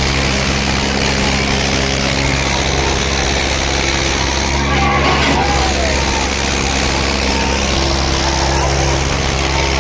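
Diesel tractor engine running at a steady speed.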